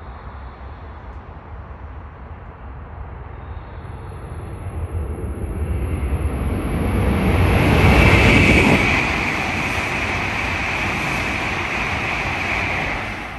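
W7 series Hokuriku Shinkansen train passing through the station at speed without stopping. A rushing noise builds over several seconds, is loudest about eight seconds in, then holds steady as the cars go by, with a thin high whine above it. It falls away sharply near the end.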